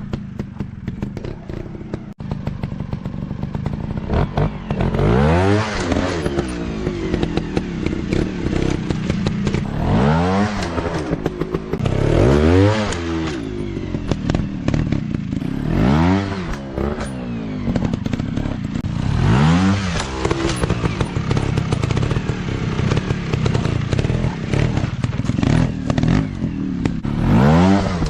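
Dirt bike engines running, with the throttle blipped again and again: the engine note rises and falls in short revs every few seconds.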